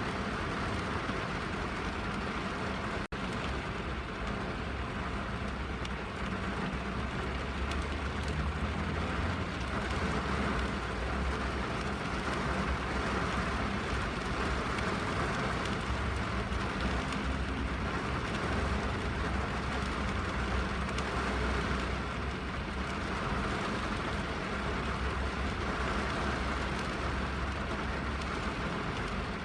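Steady rain falling on a car, heard from inside the cabin, with a deep low rumble underneath. The sound cuts out for a split second about three seconds in.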